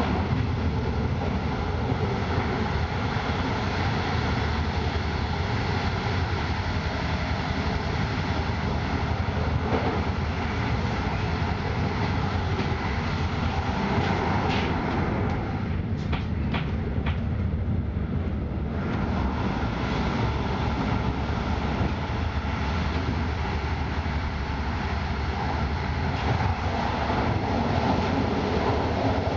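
Steady rumble and hiss of a moving passenger train heard from inside the carriage, wheels running on the rails. The higher hiss drops away for a few seconds a little past halfway, then returns.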